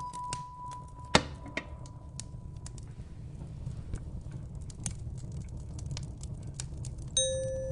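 Wood fire crackling in a fireplace: irregular pops and snaps, one louder crack about a second in, over a low steady rumble. A held bell-like note fades away about a second in, and another chime note starts near the end.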